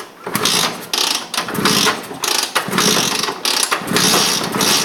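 A 1981 Vespa's two-stroke engine being cranked over and sputtering as it tries to start: a loud, uneven mechanical rattle.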